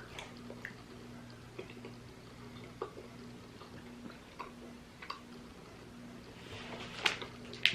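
Faint wet clicks and smacks of a mouth chewing a soft, half-melted toffee, with two sharper clicks near the end.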